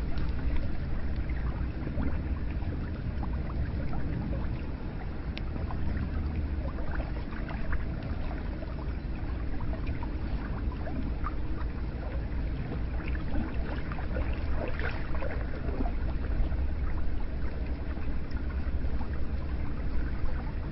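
Hot-spring bath water flowing steadily, with scattered small drips and splashes over a continuous low wash of water.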